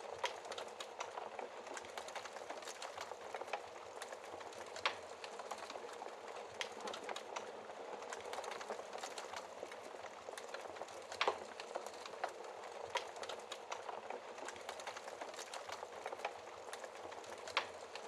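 Wood fire burning in a fireplace: a steady crackling hiss with scattered snaps and a few louder pops.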